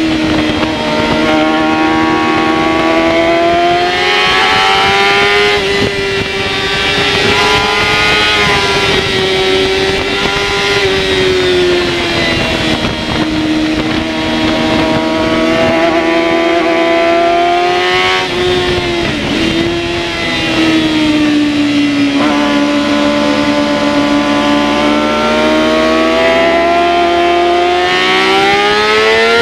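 Yamaha R6 inline-four race engine heard from onboard, held at high revs, its pitch rising and falling as the rider works through the gears and corners. About two-thirds of the way in, the revs drop sharply and climb again, and they rise steadily near the end as the bike accelerates.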